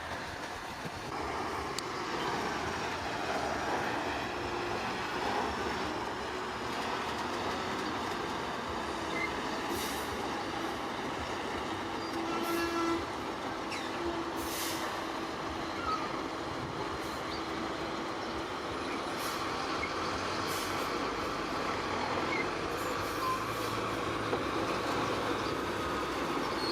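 Heavy earthmoving machinery working: a steady diesel engine drone with a sustained tone and occasional sharp metallic clanks.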